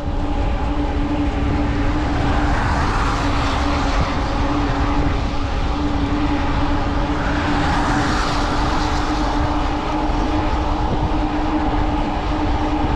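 Riding noise from a fat-tyre electric bike at about 21 mph on a wet road: wind rumbling on the chest-mounted microphone over a steady, even-pitched hum from the bike. A broad hiss swells up twice, about three seconds in and again around eight seconds.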